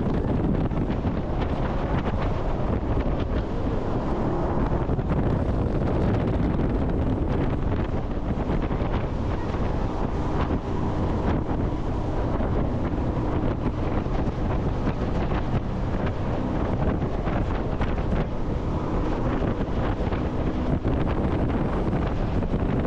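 Jet boat running at speed on a river: a steady rush of engine and water noise, overlaid by heavy wind buffeting the microphone.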